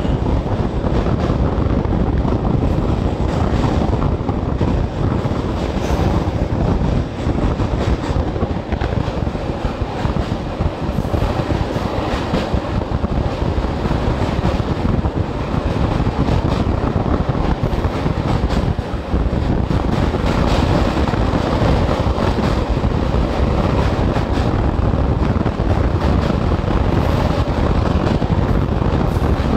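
Passenger express train running at speed across a rail bridge, heard from the open coach door: a steady rumble and clatter of wheels on rails.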